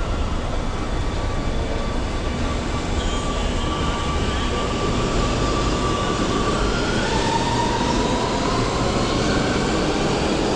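Metro train in an underground station: a steady rumble with a faint electric motor whine that glides upward in pitch, growing slowly louder.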